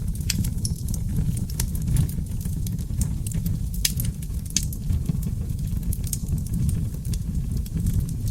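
Seasoned oak logs burning in a fireplace: a steady low rumble of flames with frequent irregular crackles and sharp pops.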